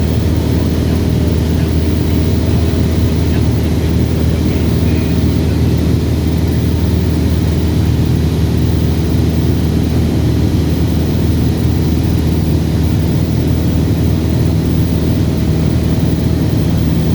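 Cessna 172RG's four-cylinder Lycoming piston engine and propeller running at a constant setting, a steady drone with no change in pitch.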